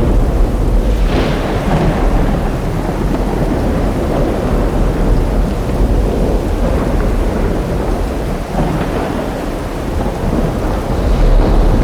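Thunderstorm: steady heavy rain with continuous rolling thunder rumble, a sharper thunderclap about a second in and the rumble swelling again near the end.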